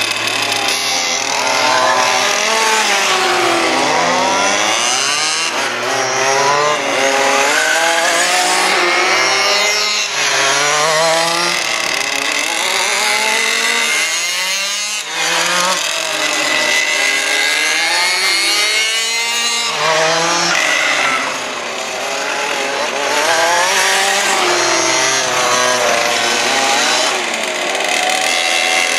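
Several 1:5-scale RC cars' small two-stroke petrol engines (23 cc and 30 cc) racing together, revving up and down constantly. Their overlapping pitches rise and fall as the cars accelerate, lift off and pass.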